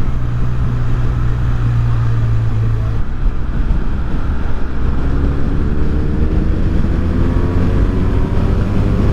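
2015 BMW R1200R's flat-twin boxer engine running on the freeway, with wind rushing over the microphone. The engine note holds steady for about three seconds, then climbs slowly as the bike accelerates.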